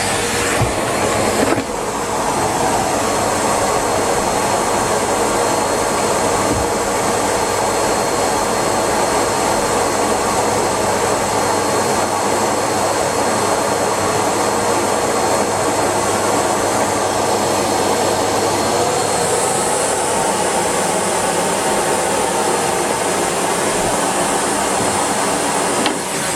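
Numatic Henry Pet vacuum cleaner running steadily with a continuous rushing hum. Its tone shifts briefly about a second and a half in, and a higher hiss comes in about two-thirds of the way through.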